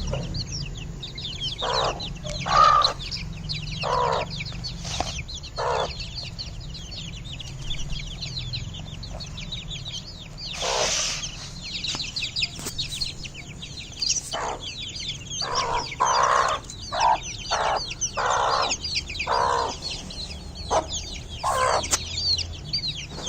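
A flock of Aseel chicks peeping continuously in high, thin chirps, with louder, lower chicken calls breaking in irregularly and one short harsh burst about eleven seconds in.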